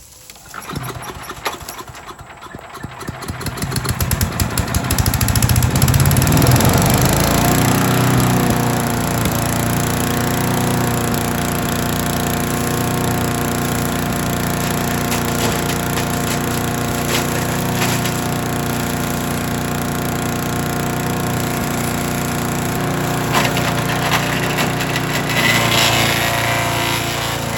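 Troy-Bilt chipper/shredder's small gasoline engine starting up, its firing quickening over the first few seconds before it settles into a steady run. Later there are brief cracking and splintering sounds as wood is fed through its freshly replaced chipper blades.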